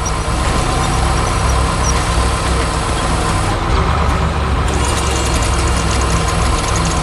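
Excavator's heavy diesel engine running steadily with a low rumble.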